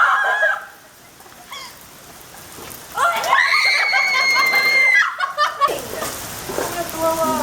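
A girl's loud, high-pitched scream held for about two seconds, followed from about six seconds in by the steady hiss of rain falling.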